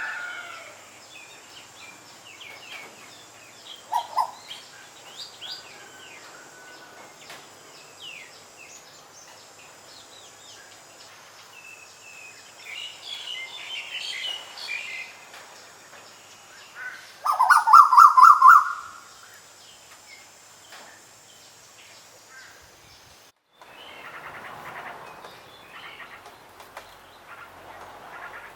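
Several wild birds chirping and calling, with quick short notes and one loud call about two-thirds of the way through. Near the end the recording cuts to a different set of birds.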